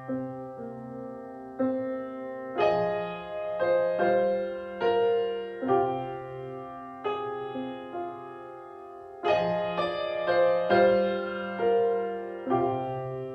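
Piano playing slow chords, struck about once a second and left to ring and fade, with one chord held longer in the middle.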